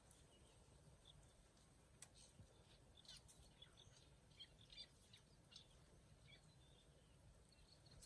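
Near silence with faint, scattered bird chirps, busiest around the middle.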